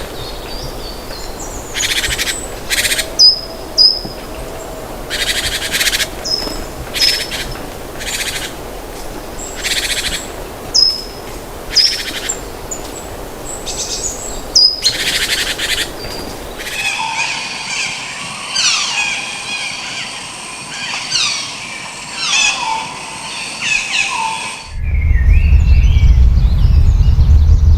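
Birds calling: repeated short chirps with downward hooks, mixed with short noisy bursts. About two-thirds of the way through this gives way to a denser chorus of many falling calls. Near the end that is replaced by a loud low rumble with faint calls above it.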